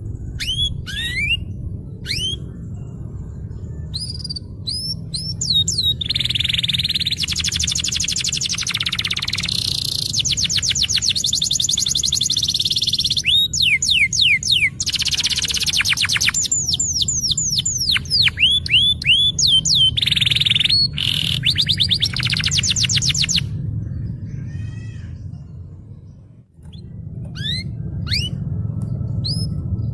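Domestic canary singing a lively 'ngerol' song: quick rising chirps broken by long, very fast trills (rolls). A steady low hum runs underneath and briefly fades near the end.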